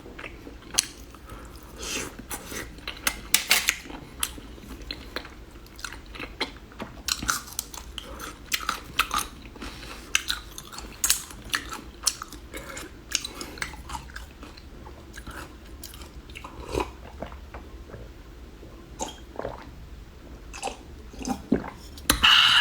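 A person chewing and biting into a whole kidney, close to the microphone, with many short irregular crunchy clicks.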